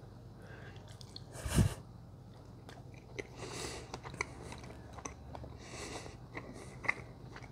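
A man chewing a bite of grilled paddlefish close to a clip-on microphone, quiet with scattered small mouth clicks. One sharp thump about a second and a half in is the loudest sound.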